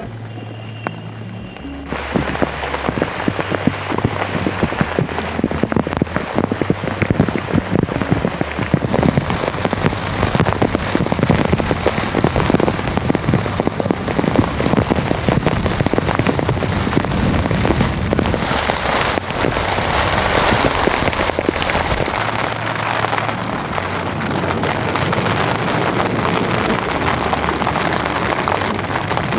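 Heavy rain falling: a dense, steady hiss of many drop hits that starts abruptly about two seconds in.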